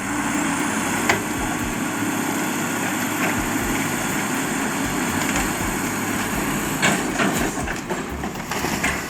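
A heavy vehicle's engine running steadily, with a few sharp knocks.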